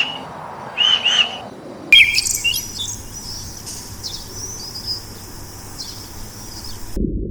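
Birds chirping: a few short, arched chirps repeated in pairs, then after an abrupt change about two seconds in, higher, thinner twittering.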